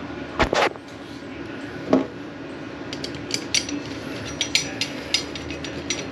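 Small metal hardware and hand tools clinking and knocking as they are handled: two knocks under a second in, another about two seconds in, then a run of light, sharp clicks.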